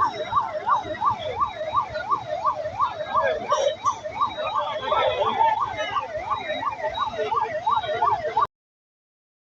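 Emergency vehicle siren in a fast up-and-down wail, about three sweeps a second, over road noise; it cuts off suddenly about a second before the end.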